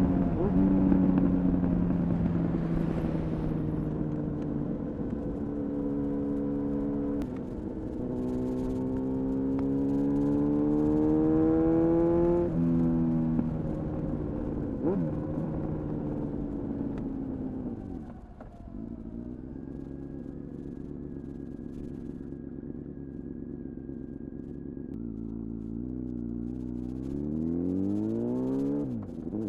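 Honda CBR-929RR Fireblade's inline-four engine through an Erion full racing exhaust. Engine speed rises in the middle, drops sharply at a gear change, then falls away to a low steady engine speed. Revs climb again near the end.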